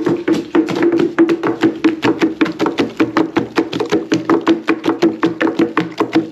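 Wooden pestles pounding boiled yam for fufu in a wooden mortar: a fast, even run of knocks, about six a second.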